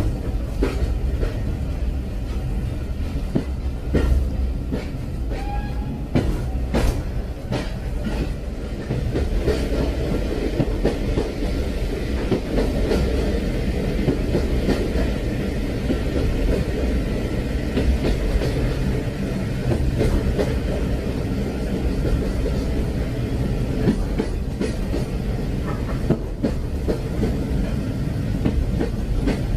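Train running along the track: a steady low rumble, with sharp clicks and knocks from the wheels over the rails, most of them in the first several seconds.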